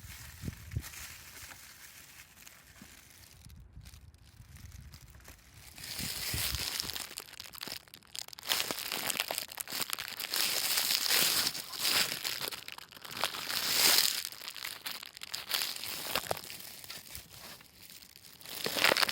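Irregular crinkling and rustling handling noise, faint at first and much louder from about six seconds in.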